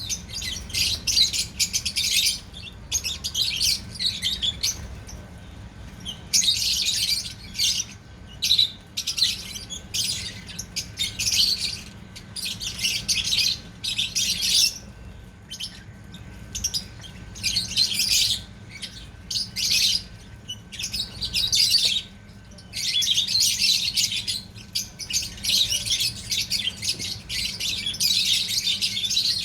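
A group of lovebirds chattering with dense, shrill chirps that come in bursts of a second or two with short pauses between.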